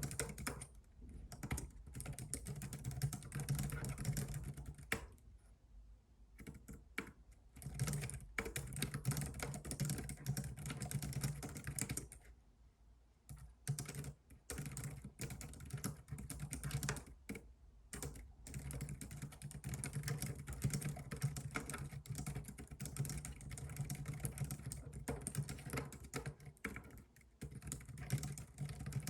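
Computer keyboard being typed on in quick, continuous runs of keystrokes, broken by two short pauses, one around five seconds in and another around twelve seconds in.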